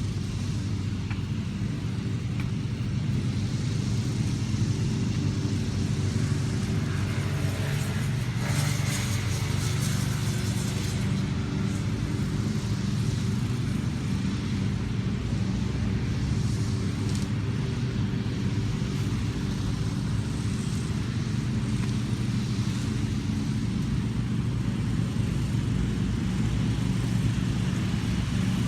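Steady low rumble of a motor vehicle, with a brief brighter rushing noise about eight seconds in.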